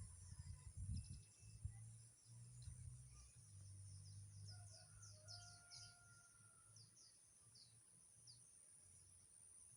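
Faint outdoor ambience with small birds giving a rapid series of short, high, falling chirps, bunched together about halfway through, over a steady high-pitched hiss.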